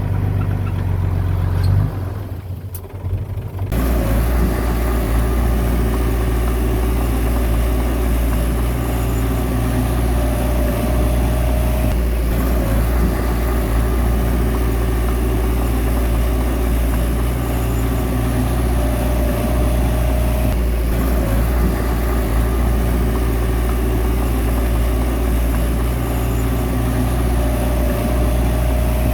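Bulldozer's diesel engine running steadily under load, with a brief drop about two to four seconds in. A faint higher whine comes and goes three times.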